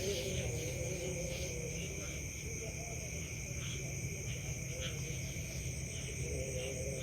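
Steady chorus of crickets or other insects, continuous high tones over a low rumble.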